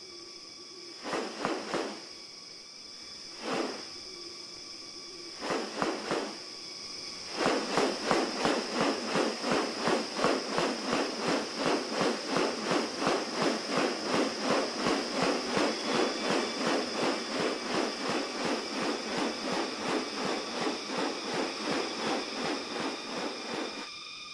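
Rainforest bird calling: a few separate calls, then a long rapid series of repeated notes, about three a second, over a steady high insect buzz.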